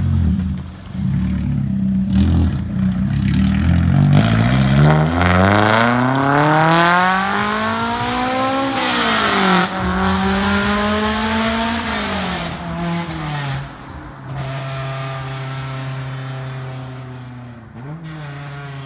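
Honda S2000's F20C 2.0-litre inline-four with a loud 5ZIGEN FIREBALL Spec1 aftermarket muffler, accelerating hard. The revs climb steeply to a high pitch and drop at a gear change about nine seconds in, then climb again and drop once more. From about fourteen seconds it settles into a steady cruise.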